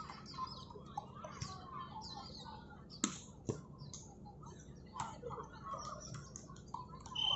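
Amateur team ball game: scattered distant shouts and short chirping squeaks, two sharp knocks about three seconds in, and a steady high whistle blast starting at the very end.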